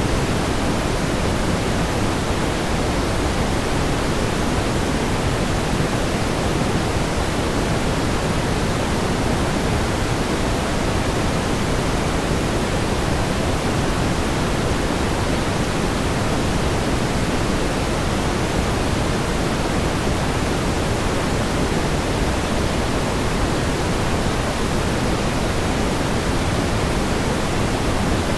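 Steady pink noise: an even, unchanging hiss weighted toward the low end, with no swells or breaks.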